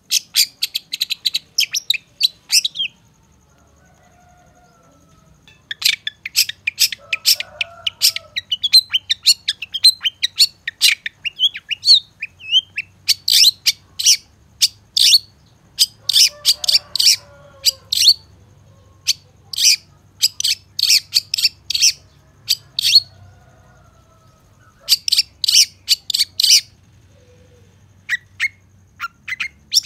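Long-tailed shrike (cendet) song: rapid trains of sharp, high chattering notes in bursts of a few seconds, with short pauses between. Fainter, lower bird calls sound underneath.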